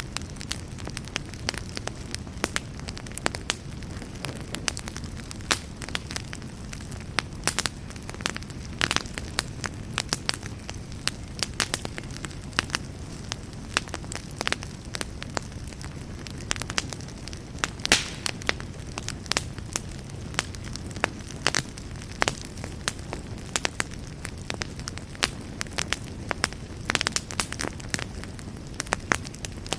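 Wood campfire burning steadily, with a low rumble of flame and frequent sharp crackles and pops, a few louder snaps among them.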